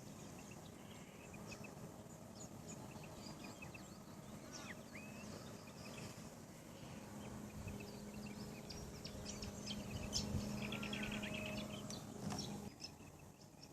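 Birds chirping and calling outdoors, with a few quick rising calls and a fast trill near the end. A low steady hum joins about halfway through and stops suddenly shortly before the end.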